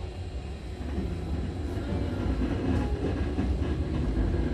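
Running noise inside a Hankyu 7000-series commuter train pulling away from the station: a low rumble of wheels and running gear that grows steadily louder as the train gathers speed.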